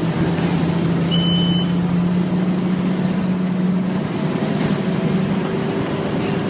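Scania N230UD Omnicity double-decker bus's five-cylinder diesel engine running with a steady drone, its pitch easing slightly about four seconds in. A short high beep sounds about a second in.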